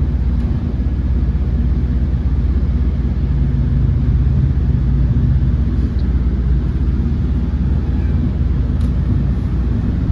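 MARC Camden Line commuter train rolling along the track: a steady low rumble with a constant hum.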